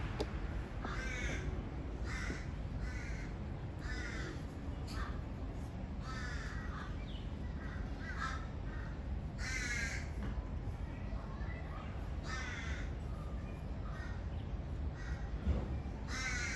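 A bird calling over and over in short, harsh caws, about a dozen through the stretch, over a steady low hum, with one brief thump near the end.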